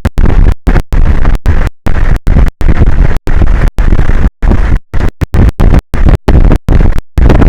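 Loud, distorted rushing noise, heaviest in the low end, that keeps cutting out in brief gaps several times a second: wind buffeting the outdoor microphone of an exposed offshore camera.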